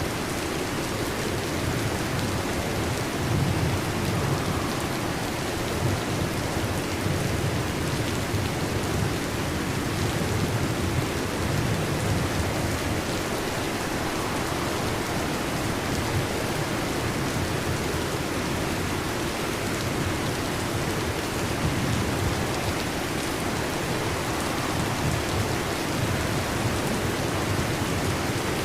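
Heavy rain falling steadily, with low rumbles of thunder swelling now and then beneath it.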